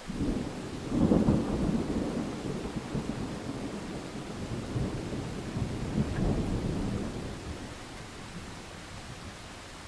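Thunder over steady rain: a rumble breaks in suddenly, peaks about a second in, rolls on with a second swell a few seconds later, then dies away, leaving the rain hiss.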